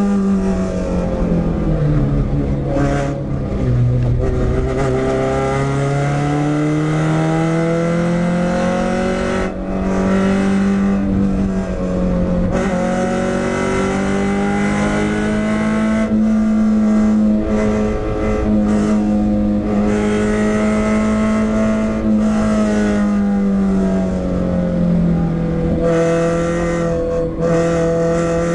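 Renault Clio 172's 2.0-litre four-cylinder engine driven hard on a race track, heard from inside the stripped-out cabin. Its pitch drops as the car slows at the start, climbs through the revs, holds high through the middle, falls again and climbs once more near the end.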